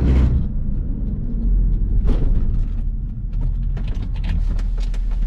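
Car interior noise while driving: a steady low road rumble with a knock at the start, another about two seconds in, and a scatter of small clicks and creaks near the end.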